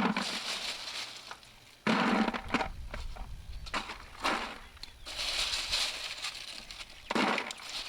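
Loose lava rock being scooped and poured, crunching and rattling in several sudden bursts.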